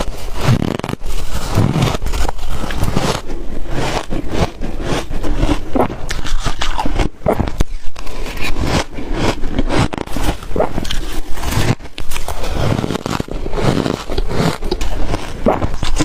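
Ice coated in matcha and milk powder being bitten and chewed close to the microphone: a steady run of crackling crunches.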